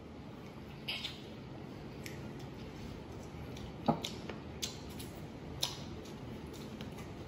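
Chewing a crisp bread-crumbed fried chicken drumstick: several short, sharp crunches, the loudest about four seconds in, over a steady low background hum.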